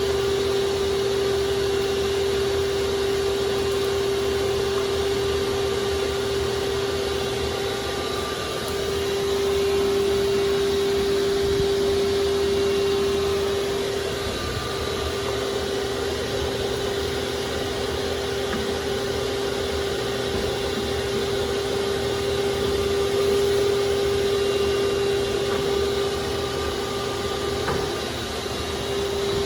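Shop vacuum running steadily with a constant motor whine, its pitch and level shifting a little as the hose works.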